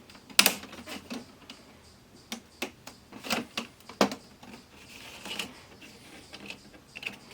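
Irregular plastic clicks and snaps as the clips of a TV's plastic bezel are pried loose, the sharpest about half a second in.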